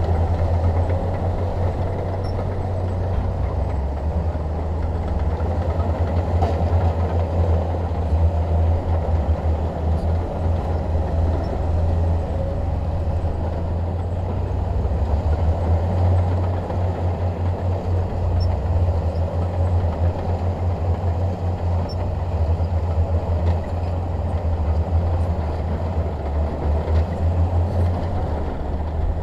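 Bulldozer's diesel engine running steadily, a deep low drone with a rougher rumble above it.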